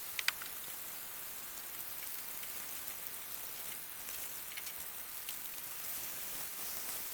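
Steady sizzling hiss of food frying in a pan on a camp stove, with a couple of sharp clicks just after the start.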